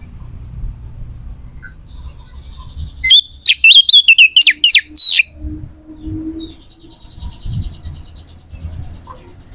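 A bird chirping: a rapid, loud run of chirps about three seconds in, lasting about two seconds, with fainter trills before and after.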